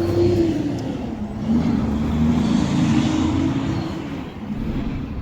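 A motor vehicle's engine running with a steady, slightly wavering low hum.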